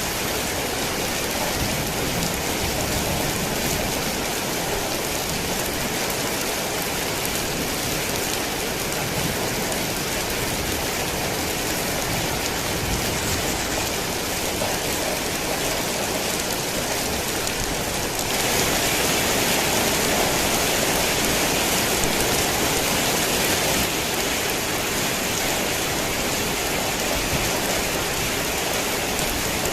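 Heavy rain falling steadily in a dense, even hiss. A little past the middle it gets louder for about five seconds, then drops back to its earlier level.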